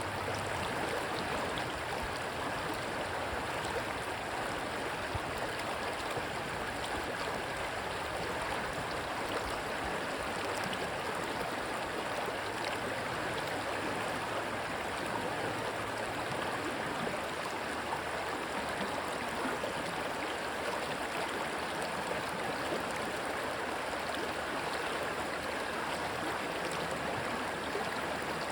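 Rushing stream water, a steady even rush.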